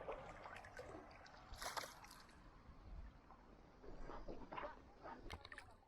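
Water splashing and sloshing in a few short, irregular splashes, as a paddle dips in beside a stand-up paddleboard.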